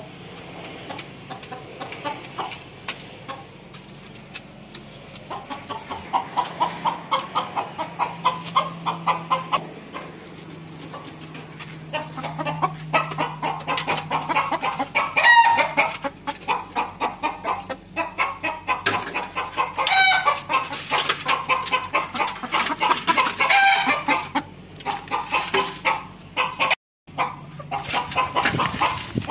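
Chickens clucking in quick, repeated bursts, with several longer, pitched calls standing out partway through.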